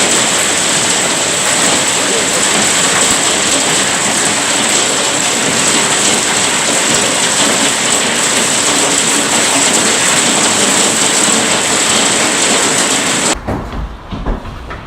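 Hailstorm: a loud, dense, unbroken clatter of hail pelting down on hard surfaces. About 13 seconds in it cuts abruptly to a quieter sound of low rumbling with scattered taps.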